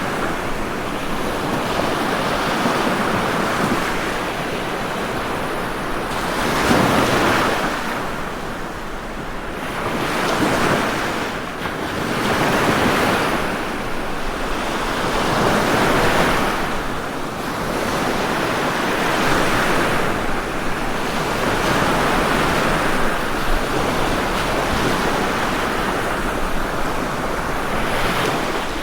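Ocean waves breaking and washing on a shore, each wave swelling and fading every few seconds.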